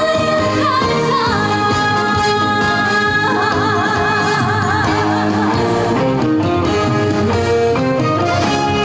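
A woman singing a trot song live over a backing band, holding a long note with wide vibrato about three seconds in; the band keeps playing after the note ends.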